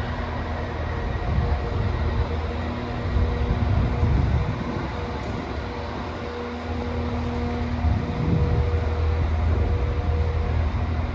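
A train running at the station: a steady low rumble with a hum that comes and goes several times.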